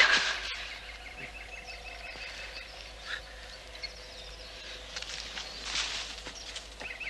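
Birdsong in woodland: a small bird's rapid trilling chirps in short runs, about a second in and again near the end, over a quiet outdoor background with a couple of brief rustling noises.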